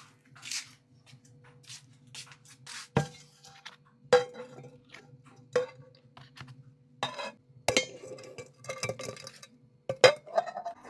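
Kitchen dishes and utensils clinking and knocking, about half a dozen sharp clinks, several of them ringing briefly like metal or glass, the loudest near the end. A faint low steady hum runs underneath.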